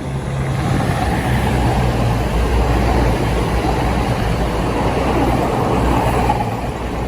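Two coupled Class 220 Voyager diesel multiple units passing through the station: the underfloor diesel engines run with a steady low drone over the rumble of the train on the rails. The sound eases a little about six seconds in.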